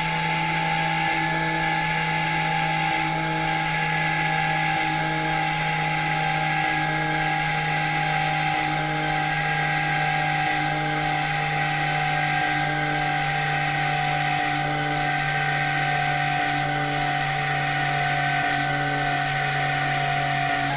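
CNC machine running with a steady high whine over a low hum.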